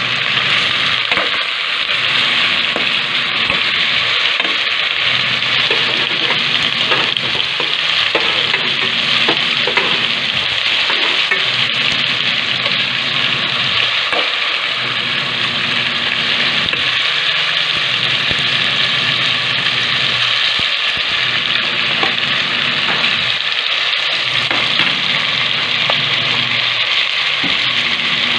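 Meat frying in an aluminium pot with a steady sizzle while a metal spoon stirs it, with faint scrapes and clicks of the spoon. A low hum comes and goes every couple of seconds underneath.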